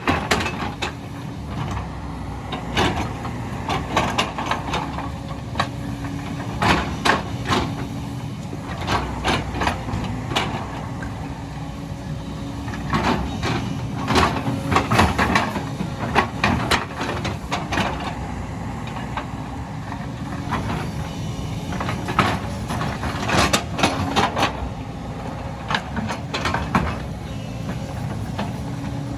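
Excavator's diesel engine running steadily under working load with a steady tone, over which come many irregular sharp cracks and knocks as the machine works through vegetation and ground.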